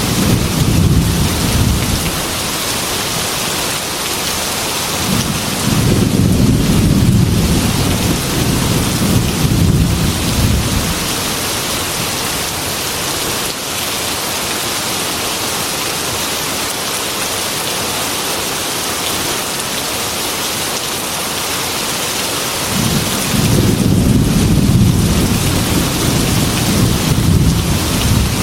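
Heavy rain pouring steadily on a metal roof, with rolling thunder rumbling in three spells: at the start, again from about five seconds in for several seconds, and once more near the end.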